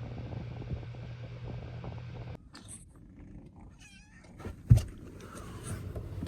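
A steady low hum that cuts off abruptly about two seconds in, then a cat meowing with wavering calls, followed by a single sharp thump.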